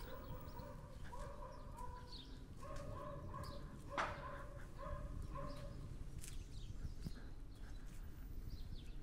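Outdoor ambience of birds chirping, with a repeated short pitched call and a single sharp knock about four seconds in.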